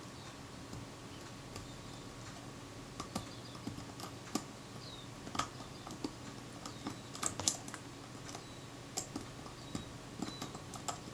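Small sharp metal clicks and taps of a hand tool working on the spring and pawl inside a Kodak Retina IIIc camera body, scattered irregularly over a faint steady hum.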